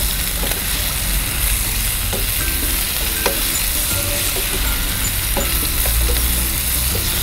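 Chicken pieces and sliced banana peppers sizzling as they fry in a pan, with a spoon stirring them and clicking against the pan a few times.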